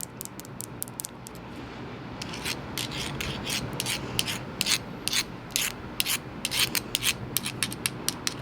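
Rapid, irregular taps and clicks of fingernails on small seashells, with a brief pause about a second and a half in, over a steady wash of ocean waves.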